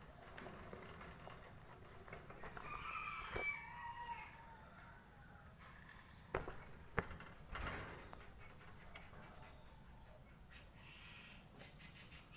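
A faint rooster crowing once, a single drawn-out call of about two seconds that drops in pitch at the end. A few sharp knocks follow a few seconds later.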